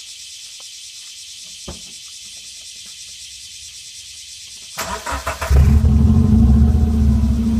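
Subaru Legacy flat-four engine with a straight-pipe exhaust and no muffler, cranked by the starter about five seconds in, catching within a second and then running loudly with a deep, rumbling exhaust. Before the start, only a steady high hiss is heard.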